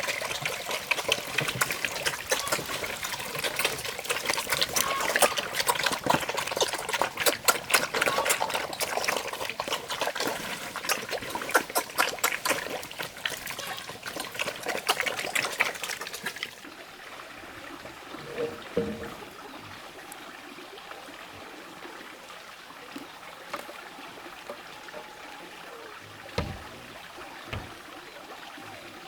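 Water trickling and splashing, which cuts off abruptly about two-thirds of the way through, leaving quieter background with a few soft knocks.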